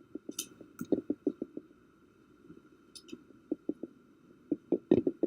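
Scissors snipping through two stacked Post-it notes, runs of short quick cuts with a brief pause partway through.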